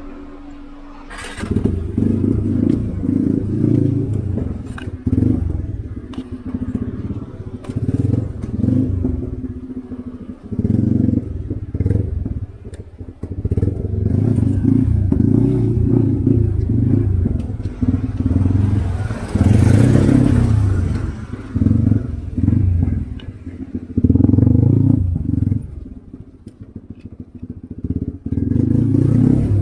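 Motorcycle engine running with the throttle opened and closed over and over, surging and easing off in short spells. There is a brief rush of noise about twenty seconds in.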